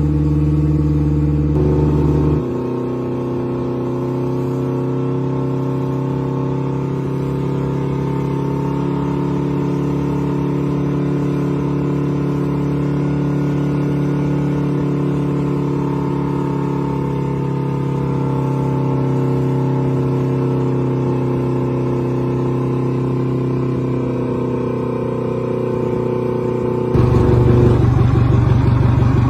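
Boat engine running steadily at a constant speed, with a drop in its note about two seconds in and a rise in speed near the end.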